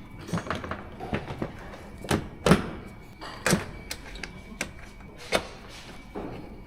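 Sharp plastic clicks and knocks from fitting a car's wheel arch liner and skid plate with new push-in clips, the loudest knock about two and a half seconds in.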